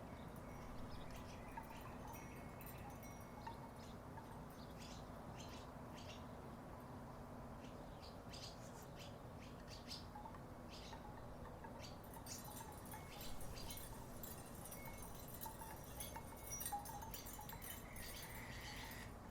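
Wooden tiki wind chimes knocking together in the breeze: dry, irregular clacks, sparse at first and much busier about two-thirds of the way through, over a faint steady background hum.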